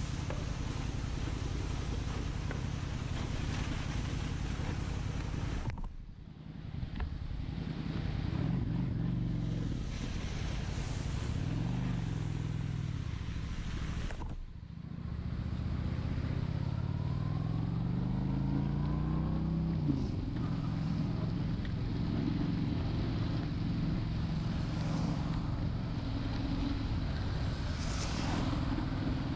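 Honda Shadow 750's V-twin engine running under way, its pitch climbing several times as it pulls through the gears, under a constant rush of wind and rain noise. Twice, about six and fourteen seconds in, the sound briefly drops away before the engine picks up again.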